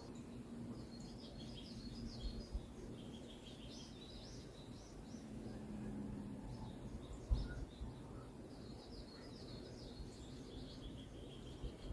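Small songbirds chirping in quick high-pitched runs of short notes, in several bursts, over a steady low background rumble. A few dull low thumps, the loudest about seven seconds in.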